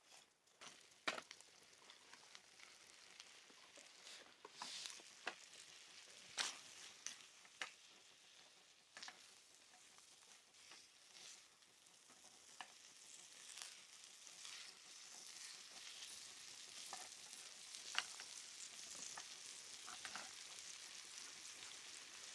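Shrimp frying in a small pan over a wood-burning stick stove: a faint sizzle that slowly grows louder, with scattered sharp pops and crackles.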